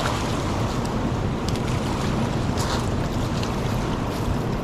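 Raging, fast-flowing river rushing steadily: a dense, even wash of water noise.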